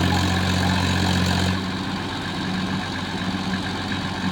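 Swaraj tractor's diesel engine running hard under a fully loaded trolley, struggling to climb. About a second and a half in, the steady low hum breaks off and the engine note turns rougher and a little quieter.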